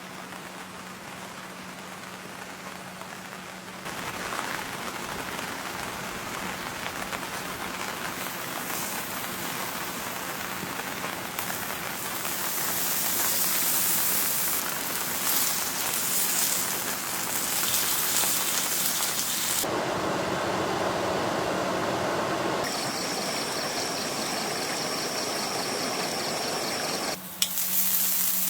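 Steady rain hiss, changing abruptly in loudness and tone several times as the shots cut, with a faint steady hum underneath.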